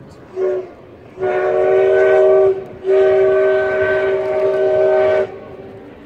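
Steam locomotive CT273's whistle blowing one short blast and then two long blasts, a steady chord-like tone with a brief break between the long blasts.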